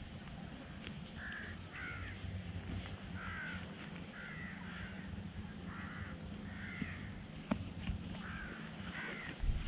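A bird calling repeatedly with short, harsh calls, about ten in all and often two in quick succession, over a low steady hum.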